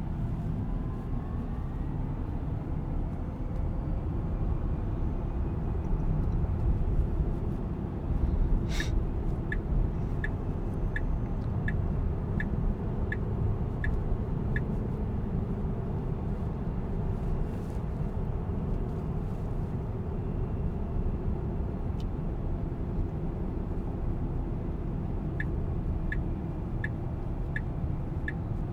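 Steady low road and tyre rumble inside a Tesla Cybertruck's cabin while it drives. Twice it is joined by a run of soft, regular turn-signal ticks, about three every two seconds: once beginning about a third of the way in, preceded by a single sharp click, and again near the end.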